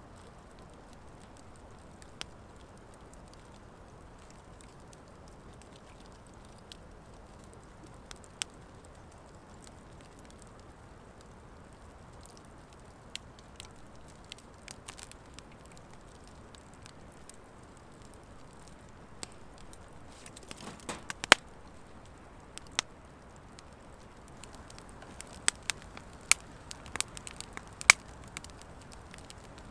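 Wood fire of driftwood and dry hardwood logs burning over a steady low hiss. Scattered sharp crackles and pops come from it, sparse at first and more frequent in the second half.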